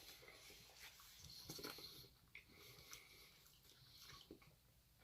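Near silence with a few faint, short clicks and soft rustles of someone eating takeaway food.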